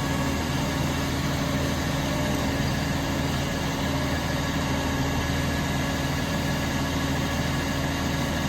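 Garbage truck engine idling steadily, with an even hum.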